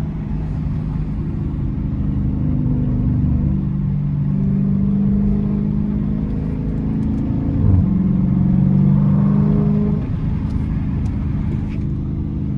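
Dodge Challenger R/T's 5.7-litre Hemi V8 with a straight-pipe exhaust (resonator and mid-muffler deleted) pulling under throttle, its deep drone building over the first few seconds. A brief thump comes near the middle, the engine runs louder for a couple of seconds after it, and it eases off about ten seconds in.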